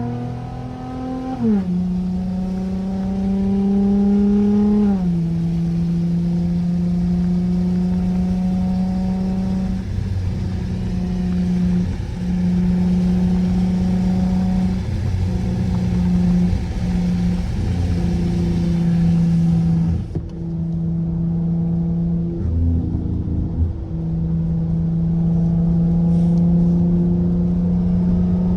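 Straight-piped Dodge SXT V6 exhaust driving: the engine note drops in pitch in two steps during the first five seconds, then holds a steady drone, dipping briefly several times.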